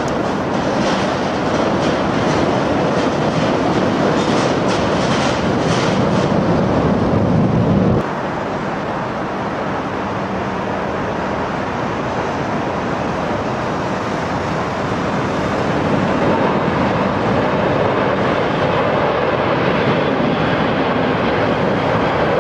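Jet airliner engines running with a loud, steady roar. The sound drops abruptly about eight seconds in.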